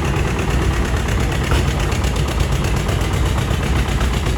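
Antique farm tractor engine running hard and steady, its exhaust firing in a rapid even chatter.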